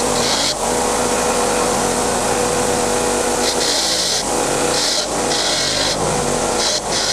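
A power tool running steadily with a constant motor tone. The higher hiss comes and goes every second or so as the tool is pressed against and lifted off the work.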